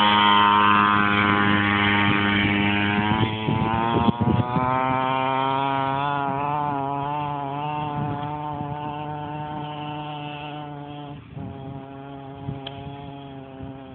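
Mini dirt bike engine running at high revs with a high, steady note that wavers slightly and dips briefly about four seconds in, growing steadily fainter through the rest.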